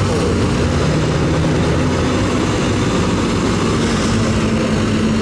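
Diesel pickup truck's engine running loud and steady, a low drone with a dense roar of noise over it.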